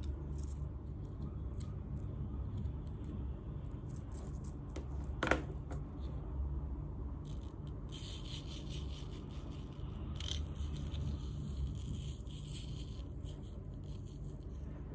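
Hands rubbing and scraping coloured sand across an adhesive sand-art sheet, over a steady low hum. There is a single sharp click about five seconds in, and the rubbing gets brighter and hissier from about eight seconds on.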